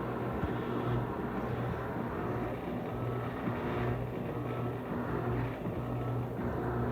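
Electrolux LTC15 top-loading washing machine on its spin cycle with a load of clothes: a steady motor hum whose low tone swells and eases every second or so.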